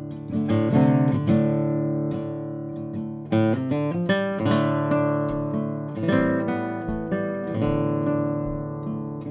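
Background music: solo acoustic guitar, plucked and strummed notes ringing and fading.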